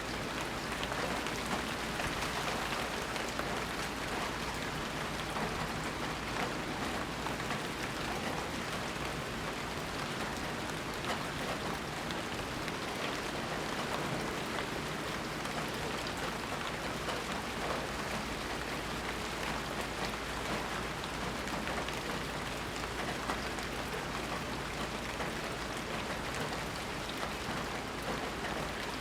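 Steady rain falling, a dense even hiss of drops hitting surfaces with fine patter throughout.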